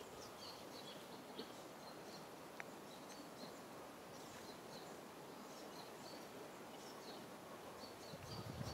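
Faint outdoor background noise with small birds chirping now and then, short high chirps scattered through it. Some low rustling comes in near the end.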